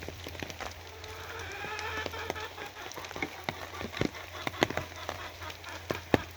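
Rain, with heavy drops striking a hard surface in irregular sharp taps over a steady low hum. About a second in, a faint drawn-out pitched sound comes in and fades over about two seconds.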